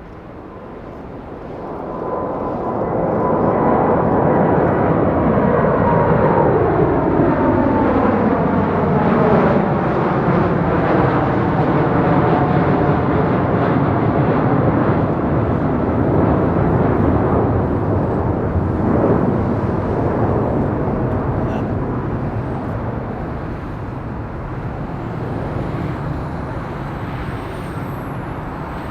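Boeing 747-8F freighter's four GEnx jet engines at takeoff power as the jet passes on departure. The noise swells over the first few seconds, the engine whine and its overtones slide down in pitch as it goes by, and then it slowly fades.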